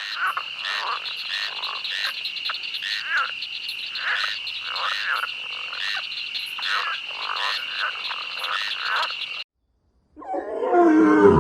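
Frogs croaking, repeated calls about one to two a second over a steady high trill, cutting off suddenly about nine seconds in. Near the end comes a short, louder animal call that falls in pitch.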